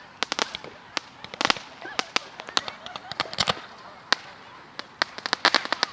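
Consumer fireworks going off: a rapid, irregular string of sharp cracks and pops, bunched into bursts about one and a half seconds in, past the middle, and near the end.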